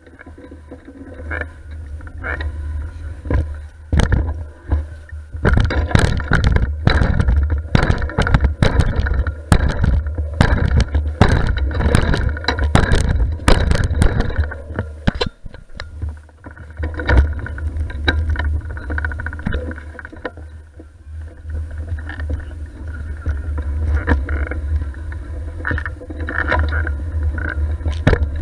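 Bicycle ride filmed on a GoPro: heavy wind rumble on the microphone with frequent rattles and knocks from the bike over the road surface, busiest for several seconds in the middle.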